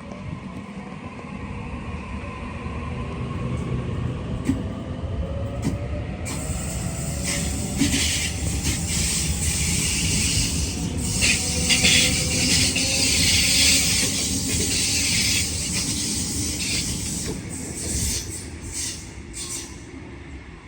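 Electric train running past: a low rumble building up, with a motor whine that shifts in pitch. From about six seconds in comes a loud hiss with rapid clacking of wheels over the rails, easing off near the end.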